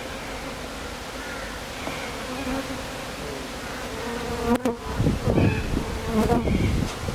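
Honeybees buzzing around an open hive, with many individual bees flying close by, their hums rising and falling as they pass. In the second half, louder low bumps and rustles join the buzzing.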